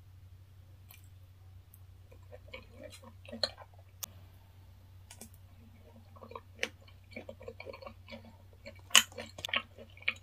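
Close-up mouth sounds of someone chewing raw fish sashimi, starting about two seconds in. Irregular soft wet smacks are mixed with sharp clicks, the loudest about nine seconds in.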